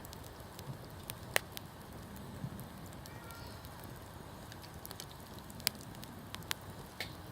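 Wood campfire crackling: irregular sharp pops every second or so over a low steady rumble of the flames, the loudest pop about a second and a half in.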